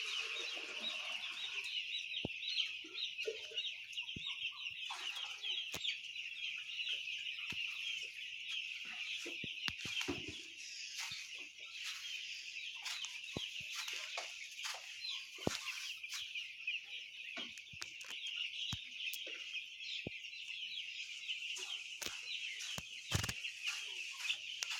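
A large flock of poultry chickens calling all at once: a dense, unbroken chorus of short high calls, with scattered clicks and knocks mixed in.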